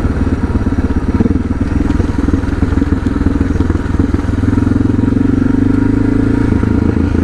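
Suzuki DR650's single-cylinder four-stroke engine running under way, a pulsing engine note heard from the rider's seat. About four seconds in the note grows a little louder and steadier, then eases back near the end.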